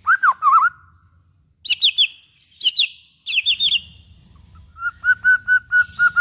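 White-rumped shama (murai batu) singing loud, varied whistled phrases. It opens with swooping notes, then gives quick high trills, and near the end a fast run of repeated notes all at one pitch.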